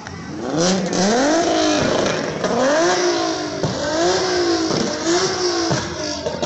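A car engine with a loud exhaust revving hard: its pitch climbs steeply and then drops sharply four times in a row.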